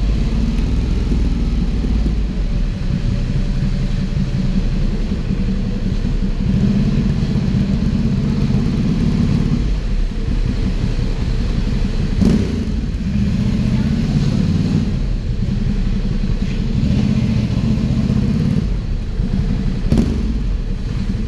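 Ducati Hypermotard 796's air-cooled L-twin running through an Arrow aftermarket exhaust, a loud low rumble that swells and eases several times. Two sharp clicks stand out, about 12 seconds in and near the end.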